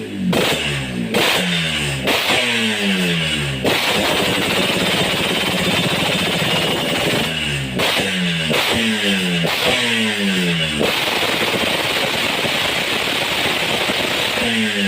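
Motorcycle engine through a RAS racing exhaust, revved in quick throttle blips with the revs rising and dropping back. The blips come in two bursts, with steady running between them and after.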